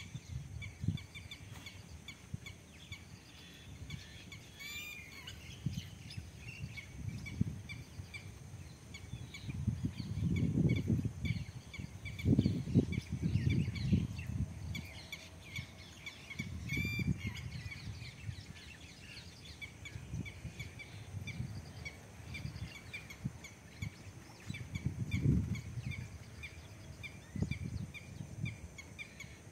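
Birds chirping by a pond, one repeating a short high chirp about twice a second, with a quick rattling call twice. Low rumbling noise swells and fades underneath, loudest in the middle.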